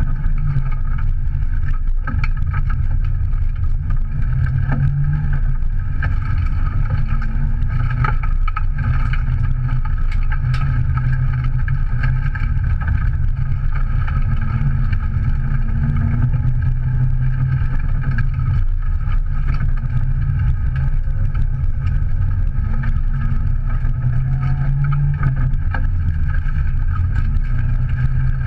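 Subaru Impreza's 1.8-litre naturally aspirated flat-four engine working hard, heard from inside the cabin, its pitch rising and falling with throttle and gear changes over a steady wash of tyre and road noise. A few sharp knocks come through from the car's body.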